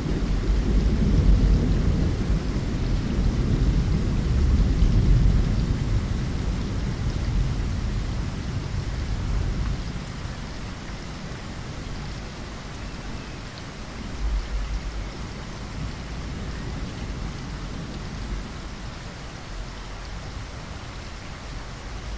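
Steady rainfall with a long rolling rumble of thunder that is loudest in the first few seconds and dies away by about ten seconds in, then a smaller rumble about fourteen seconds in.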